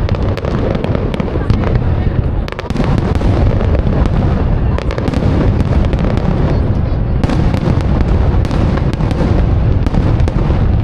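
Aerial fireworks display going off continuously: a dense run of low booms overlapping into a steady rumble, with many sharp crackles on top and a brief lull about two and a half seconds in.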